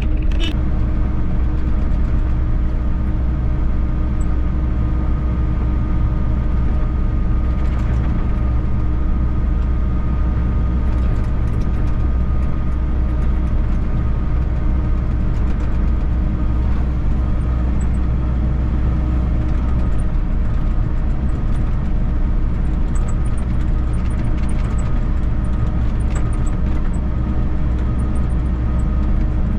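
Volvo EC60E mini excavator's diesel engine running at a steady pitch under working load, with faint clicks and squeaks from the machine as it works.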